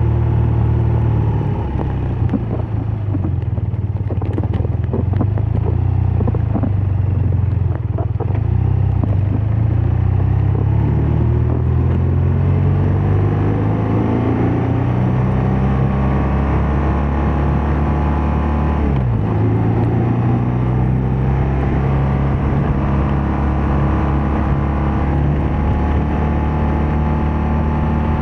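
BMW R12 nineT's boxer-twin engine and exhaust under way: uneven and crackly for several seconds, then pulling with rising pitch. About two-thirds through it drops briefly for a quick gear change, then runs steadily at cruise.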